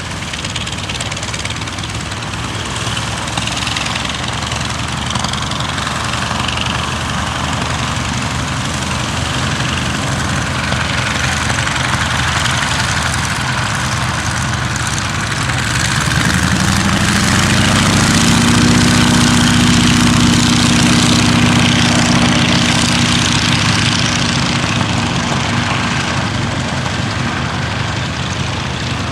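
North American T-28 Trojan's Wright R-1820 nine-cylinder radial engine running at low power, as when idling or taxiing. About halfway through the engine speed rises and holds, and the sound gets louder for a few seconds before easing slightly.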